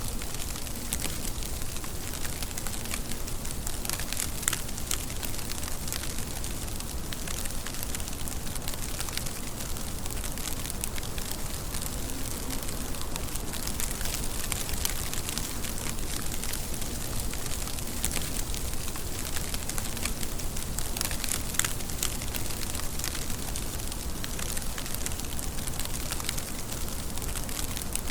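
Steady rain, an even hiss dotted with many sharp ticks of individual drops.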